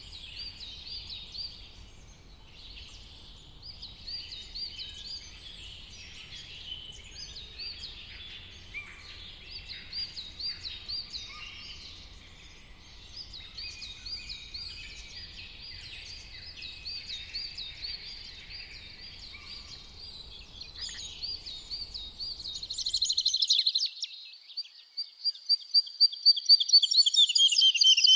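Several songbirds singing together in a forest, many short chirps and whistled phrases overlapping over a low background rumble. About 23 seconds in the rumble cuts off abruptly and a louder, closer bird sings fast runs of repeated notes.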